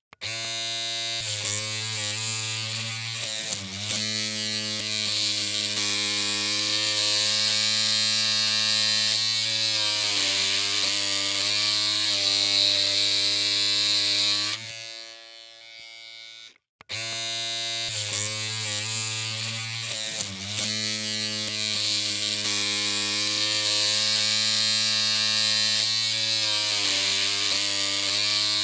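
Electric hair clippers running with a steady buzzing hum and a hissy edge. The pitch wavers for the first few seconds, then settles. The hum drops away about fifteen seconds in and comes back about two seconds later.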